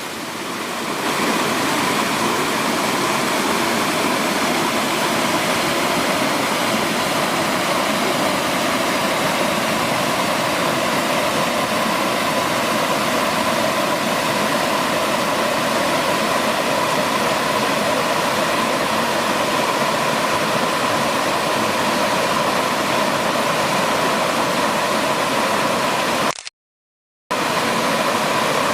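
Oehala waterfall: a loud, steady rush of falling water. The sound cuts out completely for under a second near the end.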